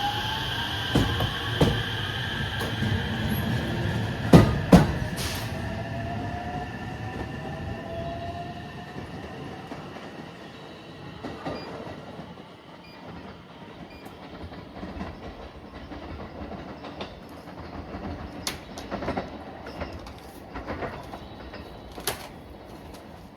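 Electric train on the move: a motor whine rising in pitch, wheels knocking over rail joints with two loud knocks about four and a half seconds in, then the sound fading away with scattered clicks of the wheels.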